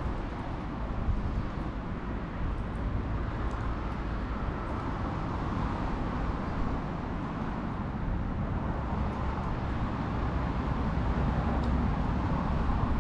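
Bonfire burning: a steady low rumble with a few faint, sharp crackles.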